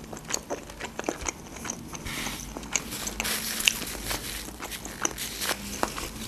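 Close-miked chewing of cooked octopus tentacle: a run of small mouth clicks and crunches.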